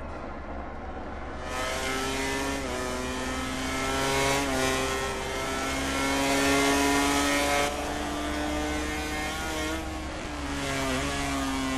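MotoGP racing motorcycle engine running hard and revving, its pitch climbing and dropping back several times as it changes gear and rolls off and on the throttle.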